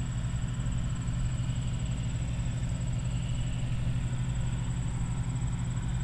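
Massey Ferguson combine running steadily while harvesting soybeans, with an even, low engine note throughout.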